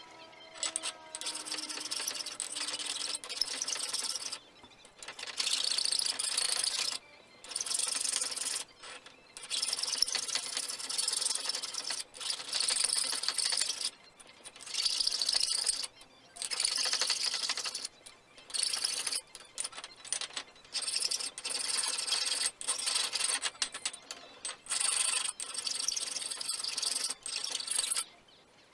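Abrasive rubbing strokes by hand, coming in repeated one- to two-second bursts with short breaks between.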